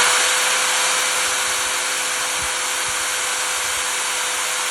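Electric drill motor running at a steady speed, drilling holes in a plastic soda bottle: a loud, even whir with a steady hum under it.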